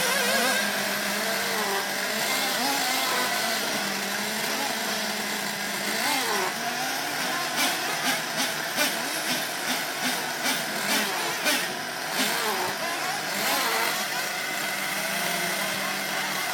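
Nitro engine of a Sworkz RC buggy, an O.S. VZ-B, running steadily, its pitch rising and falling at times.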